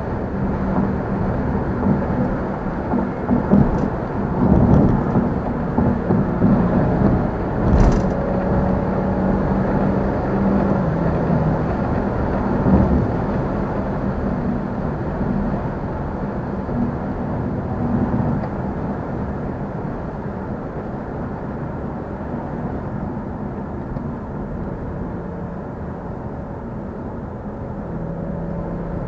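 Car engine and road noise while driving. The engine tone steps down in pitch a few times and the sound eases off from about two-thirds of the way through, with a short sharp click about 8 seconds in.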